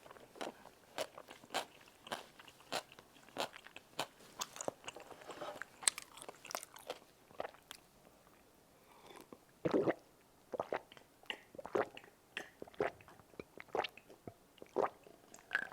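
A person chewing crunchy food close to the microphone: a steady run of crisp crunches about one to two a second, with a denser, louder patch of chewing about two-thirds of the way through.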